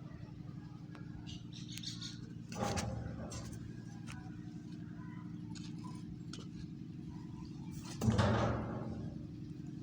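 Diesel engine running steadily, with two sudden louder noisy surges, about two and a half seconds in and about eight seconds in, each dying away within a second, and a few light clicks early on.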